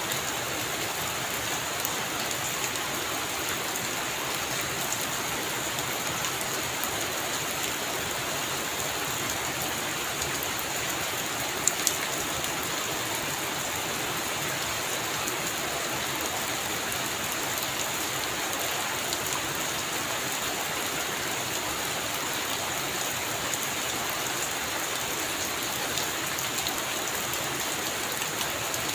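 Heavy rain falling steadily, a constant even hiss of drops. There is one sharp, louder tap about twelve seconds in.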